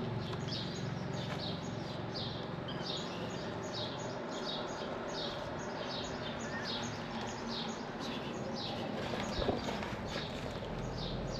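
A small bird chirping over and over, about two high, falling chirps a second, over steady background noise.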